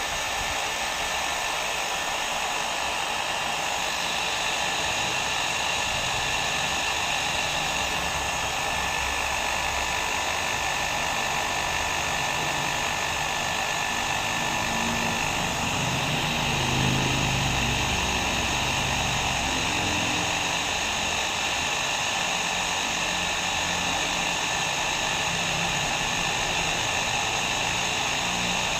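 Hair dryer running steadily: a continuous whoosh of blown air with a faint, steady motor whine, slightly fuller in the low end about halfway through.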